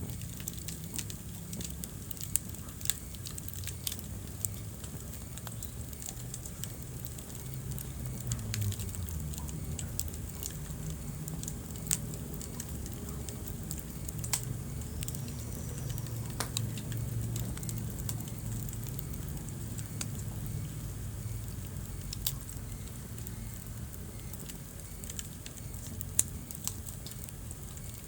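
Wood fire burning in a fireplace: a steady low rush of flames with scattered sharp crackles and pops, a few louder pops standing out early and near the end.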